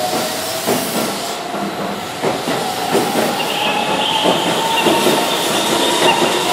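Keihan 13000-series electric commuter train pulling out of the station: the traction motors whine with a pitch that slowly rises as it gathers speed. The wheels clack over rail joints every second or so, over a steady hiss.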